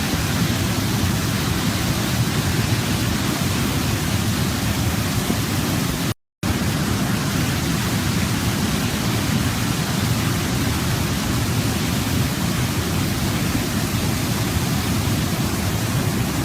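Waterfall: a steady rush of falling water, heaviest in the low range, that cuts out completely for a split second about six seconds in.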